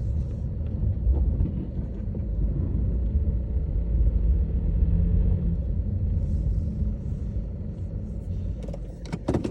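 Honda HR-V driving through snow: a steady low rumble of engine and road noise that eases off over the last few seconds, with a few short clicks near the end.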